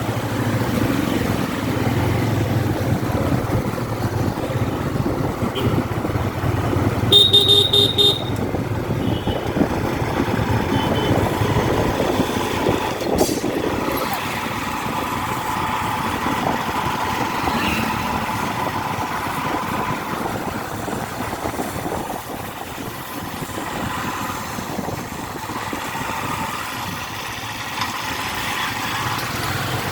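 Road traffic on a rain-soaked, flooded town street: vehicle and motorcycle engines running with tyre and water noise, and a short horn toot about seven seconds in.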